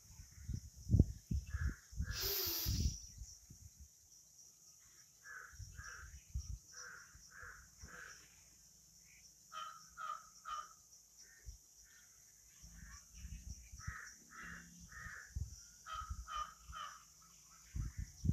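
Birds giving short, harsh calls repeated in runs of several, from about five seconds in to near the end. Low thumps and a brief rush of noise come in the first three seconds.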